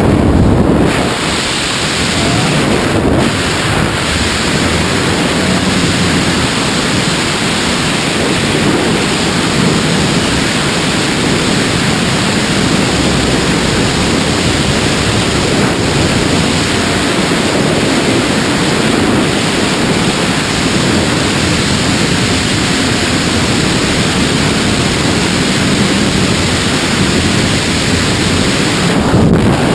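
Loud, steady rush of wind over the camera microphone during skydiving freefall.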